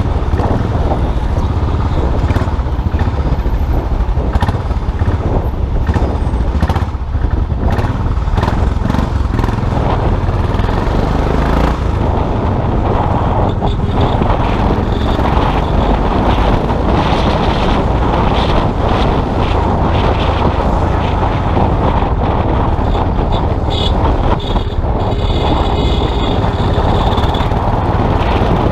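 Custom motorcycle engine running steadily under way, a continuous low rumble. A brief high squeal sounds about 25 seconds in.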